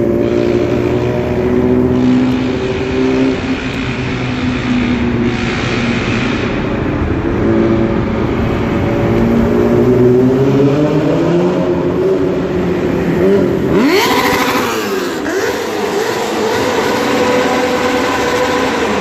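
Yamaha R6 inline-four engine with a straight-piped exhaust running, its pitch drifting slowly up and down. About fourteen seconds in it is revved sharply, the pitch shooting up and dropping back within a second or two.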